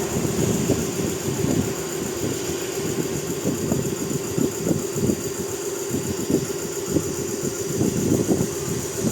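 Truck engine running steadily, with an uneven pattern of short pulses over a constant hum.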